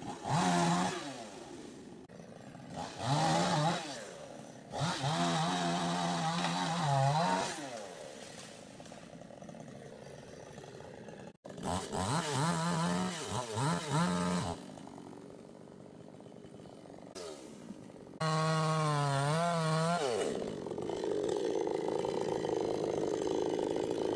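Chainsaw revved in repeated bursts of one to three seconds, dropping back to a quieter idle between them. A steadier, rougher run fills the last few seconds.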